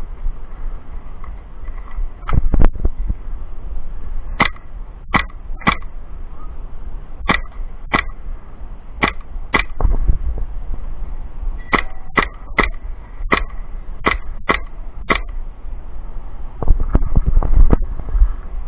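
Airsoft gun firing about fifteen single shots, short and sharp, in irregular runs of two or three. Low rumbling wind and handling noise on the microphone sits under it and swells near the end.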